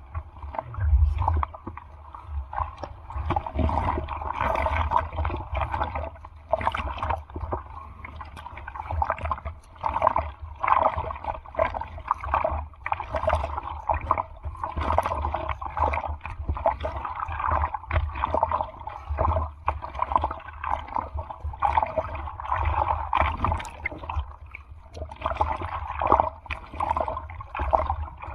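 Seawater sloshing and splashing in irregular bursts, with a heavy low rumble of wind or water buffeting the microphone.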